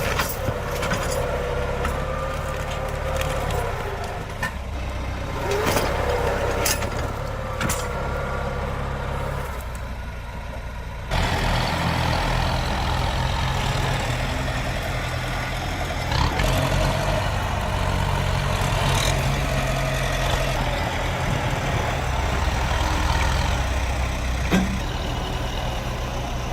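Tractor engine running steadily, with a few sharp knocks in the first half and an abrupt jump in loudness about halfway through.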